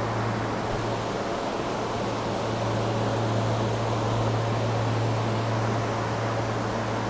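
SEPTA regional rail electric train car standing at the platform with its doors open: a steady low hum over an even rush of running ventilation and auxiliary equipment.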